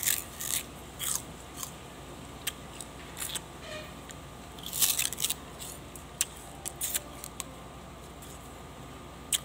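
Sugarcane being bitten, torn with the teeth and chewed: irregular crisp crunching and tearing bites, the loudest about five seconds in.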